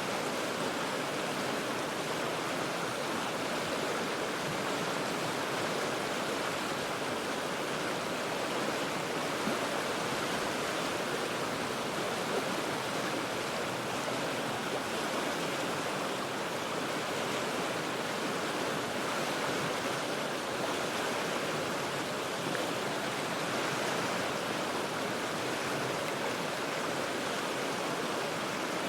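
Cheat River rushing over rocks, heard from about forty feet above as a steady, even wash of water.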